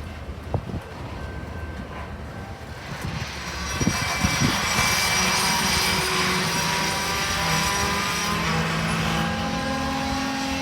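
Train rolling past: a steady rumble that grows louder about four seconds in, with several steady high tones ringing over it.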